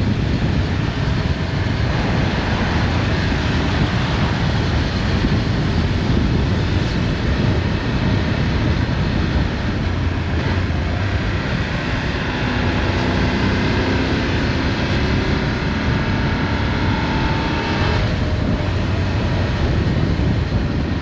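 Motorcycle on the move: engine running under a steady rush of wind on the microphone, with a faint engine note rising slowly in the second half and breaking off about three-quarters of the way through.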